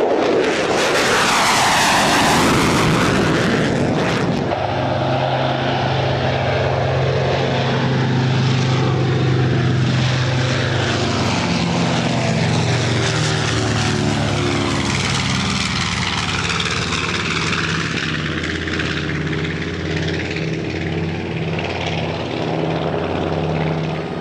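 An aircraft flying past with a loud rush for the first few seconds, then the steady drone of a propeller aircraft's piston engine for the rest.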